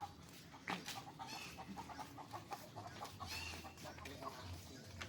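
A few short bird calls, faint, over a steady low hum.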